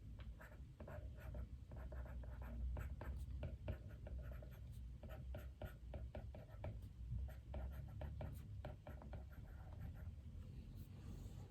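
Soft typing on a computer keyboard: quick, irregular key clicks in runs with brief pauses, thinning out near the end.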